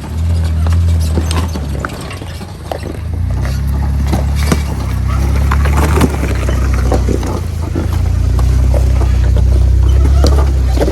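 A 4x4's engine rumbling at low speed on a rough off-road trail, working harder about three seconds in and again near the end, with scattered knocks and clunks from the vehicle and rocks.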